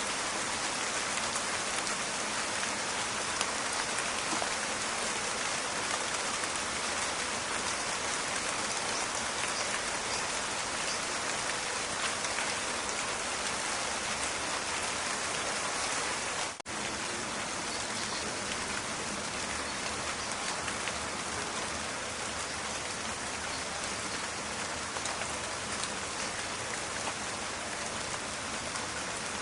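Steady rain falling in a forest, a dense crackling patter of drops, broken by a momentary dropout about halfway through.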